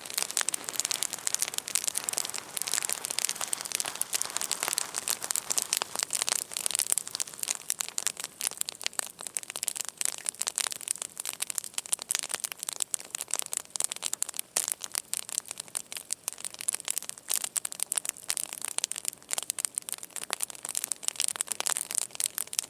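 Wood campfire burning, crackling with many irregular sharp cracks.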